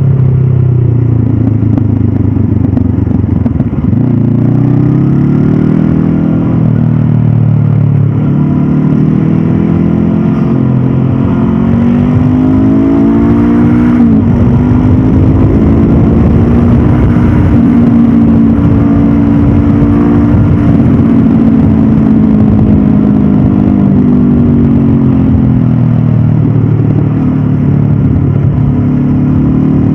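Stock Honda CB500F's parallel-twin engine pulling along the road, its pitch rising and falling as the revs change, with a sudden drop after a climb about halfway through.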